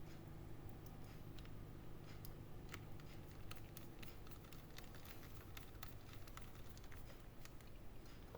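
Faint, irregular small clicks and taps of laptop parts and tools being handled during reassembly, over a low steady hum.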